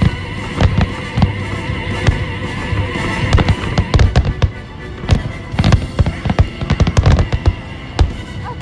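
Fireworks bursting rapidly and irregularly in loud booms and crackles over the show's orchestral soundtrack, a dense finale barrage.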